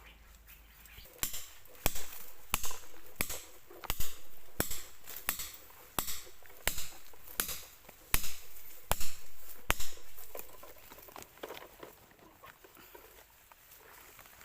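Hammer blows driving a climbing peg into the trunk of a wild bee tree: about thirteen sharp, evenly spaced knocks, roughly three every two seconds, that stop about ten seconds in.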